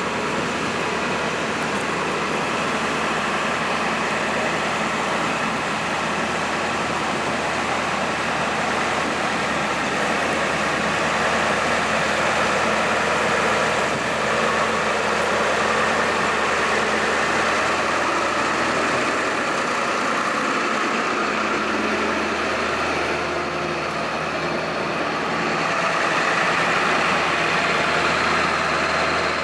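Ford F550 bucket truck engine running steadily at idle, with small swells in loudness.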